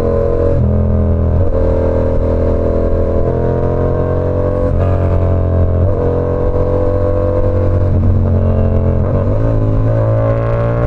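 Yamaha R7's 689 cc parallel-twin engine running through an SC Project CR-T exhaust while riding. The engine note shifts up and down several times as the revs change.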